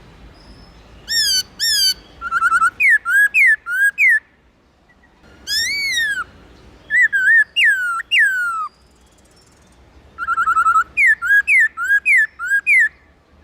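Black-throated laughingthrush singing three phrases of loud, clear whistled notes, each a quick run of rising and falling slurred whistles with short pauses between the phrases.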